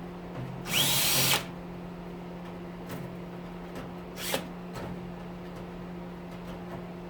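Power drill/driver running in short bursts on screws: one burst of just under a second near the start, its motor whine rising as it spins up, and a brief blip a few seconds later. A steady low hum from a stove fan runs underneath.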